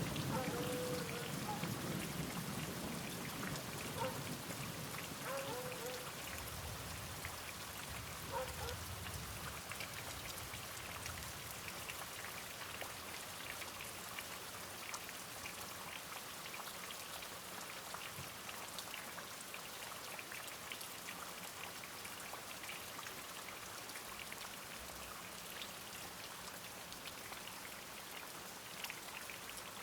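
Steady rain falling, with the low rumble of thunder dying away over the first several seconds.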